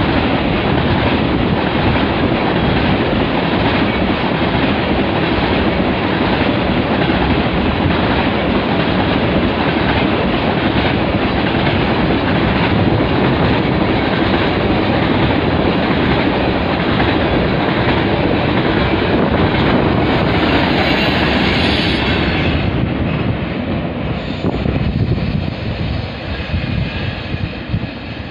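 Freight train of railroad tank cars rolling past close by: a steady rumble and clatter of steel wheels on the rails. It fades over the last few seconds as the end of the train goes by.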